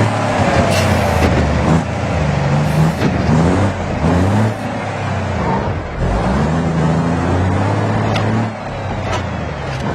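Heavy truck engine running under load, its pitch climbing several times as it pulls up through the revs.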